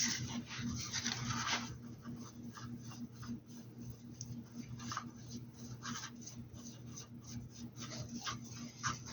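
Paintbrush bristles scratching and dabbing over the surface of a hat, in a dense patch of rubbing strokes at first and then quicker short dabs, with a steady low hum underneath.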